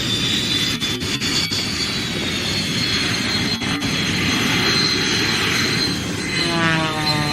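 Jet trainer turbojets passing overhead: a steady high whine over a loud rushing roar, with a cluster of tones sliding down in pitch near the end as a jet goes by.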